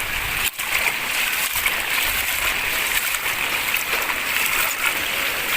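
Rain falling steadily: an even hiss of drops, with a brief dip about half a second in.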